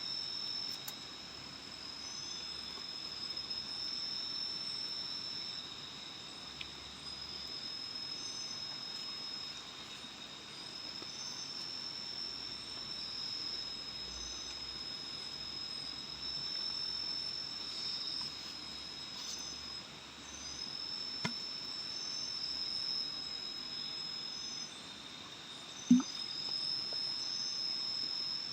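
Night insects calling in a tropical forest: steady high trills, with a short higher chirp repeating about every two seconds. A single sharp knock sounds near the end.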